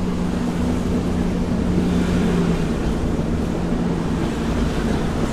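Car driving along a road, heard from inside the cabin: steady engine hum and tyre rumble, the engine's hum fading about four seconds in.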